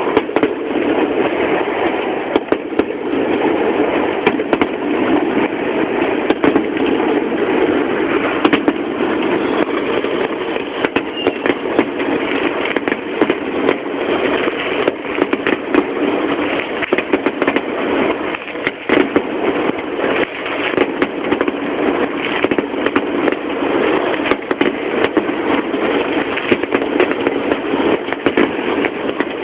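Fireworks display barrage: many bangs in rapid succession over a continuous rumbling haze. Recorded on a mobile phone from home, so the sound is poorly captured.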